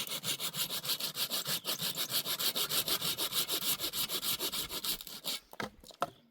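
Fast, even back-and-forth rubbing or scraping strokes, about five or six a second, that stop a little over five seconds in.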